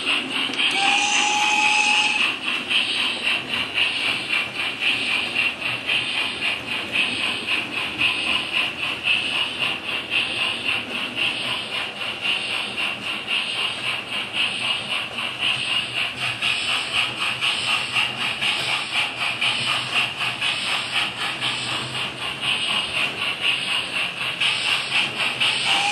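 Model steam locomotive running with DCC sound: the Hornby 9F's sound decoder playing fast, steady steam chuffing and hiss over the running noise, with a brief steady tone about a second in.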